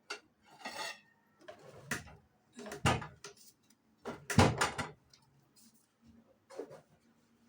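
Kitchen items being handled and set down: a series of separate knocks and clunks, loudest in a cluster about four and a half seconds in.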